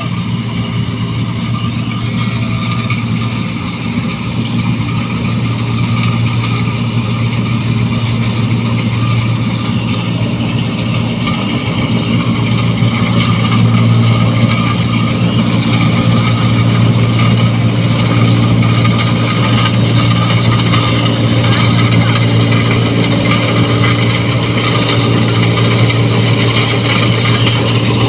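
New Holland 1545 rice combine harvester's engine running steadily under load, with a loud, aggressive exhaust note. It gets a little louder about halfway through.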